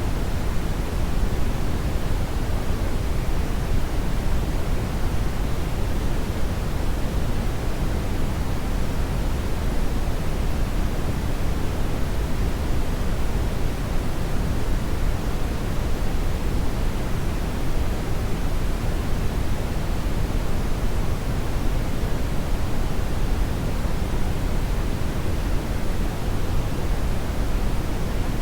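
Hair dryer blowing steadily: a continuous, even rush of air, weighted toward the low end, with no changes.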